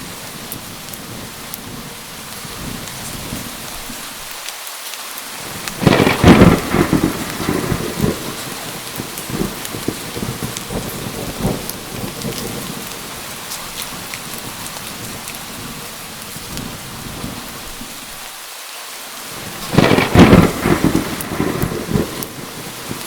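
Steady heavy rain with two loud, crackling claps of thunder, one about six seconds in and another near the end, each rumbling on for a couple of seconds.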